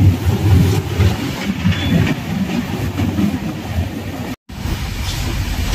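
Passenger train running on the rails: a steady rumble of the coach with wheel clatter. The sound breaks off for an instant about four seconds in.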